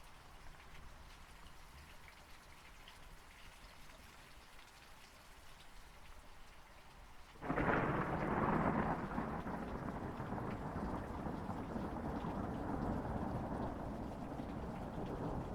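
Steady light rain falling, then about halfway through a long roll of thunder breaks in suddenly and keeps rumbling loudly over the rain.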